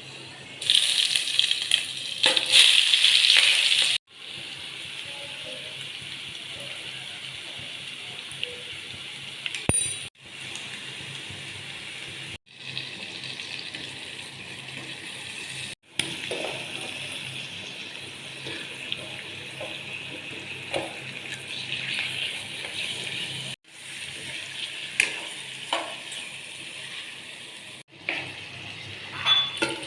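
Food frying in oil in a pan: a steady sizzle with occasional clinks of a metal utensil, loudest in the first few seconds and broken by several abrupt cuts.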